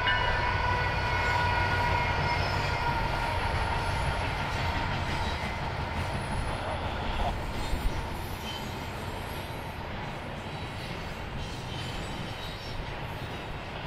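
A train rolling past with a steady low rumble, and a high ringing tone that fades out over the first few seconds. A couple of sharper knocks come about eight seconds in, after which it gets a little quieter.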